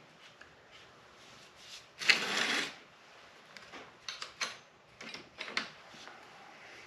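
Hand tools being handled and picked through. There is a loud rattling scrape about two seconds in, then a run of short clicks and clinks.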